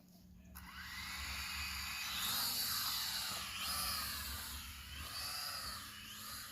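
Small quadcopter drone's propellers starting up about half a second in and buzzing, several whining tones sliding up and down as the throttle changes during takeoff.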